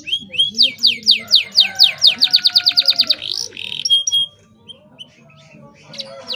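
Domestic canary singing: rapid series of repeated downward-sweeping notes that speed up into a fast trill, a short break about four seconds in, then another fast trill near the end.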